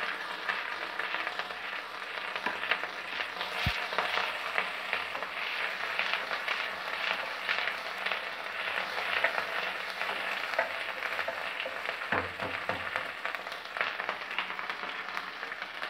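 Tender neem leaves sizzling and crackling steadily in hot oil as they fry crisp, with a single sharp knock about four seconds in.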